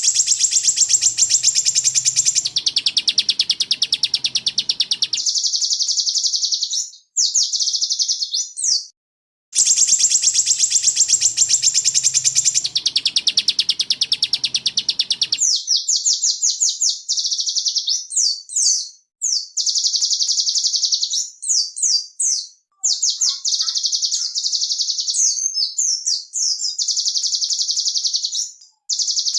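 Small songbird singing very rapid, high-pitched trills: long unbroken rolls, then shorter rolls alternating with quick sweeping notes. It is a bird-song training recording (masteran) that breaks off briefly and repeats.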